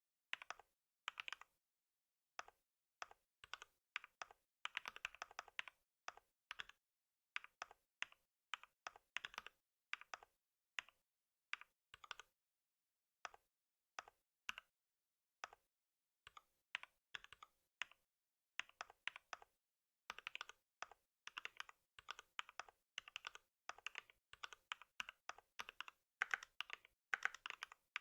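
Typing on a computer keyboard: quick runs of key clicks in uneven bursts, with short pauses between them.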